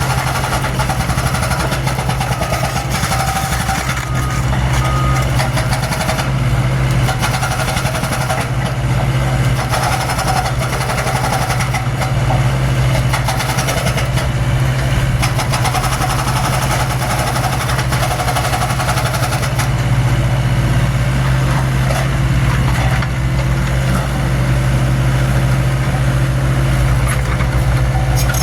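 Mini excavator's diesel engine running steadily while the machine works, with fainter higher tones rising and falling over the engine note.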